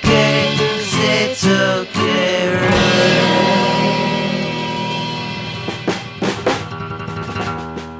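Instrumental ending of a pop-rock song played by a band with a drum kit. The band plays for about two seconds, then a held final chord rings out and slowly fades while the drums add a few scattered hits.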